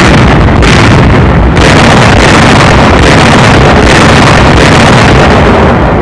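Loud, continuous rumble of an artillery barrage, with sharper blasts about half a second and a second and a half in.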